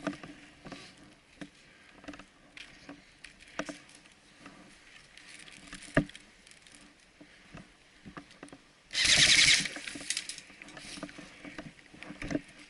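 Scattered light rustling and clicks in undergrowth, with a single sharp crack about halfway through, then a short, loud full-auto burst from an airsoft electric rifle lasting under a second.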